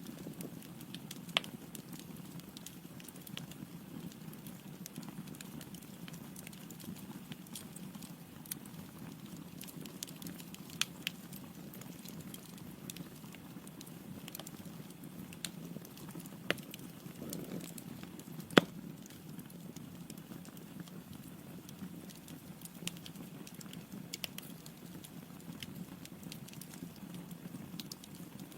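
Log fire burning in a fireplace: a steady low rumble of flames with scattered crackles and sharp pops, one much louder pop about two-thirds of the way through.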